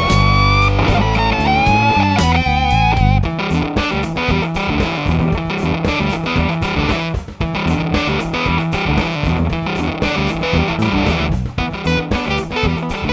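Electric guitar played through an Earthquaker Devices Sound Shank germanium fuzz pedal. It starts with sustained lead notes bent upward and one note with a wavering vibrato, then from about three seconds in switches to fast, rhythmic strummed chords.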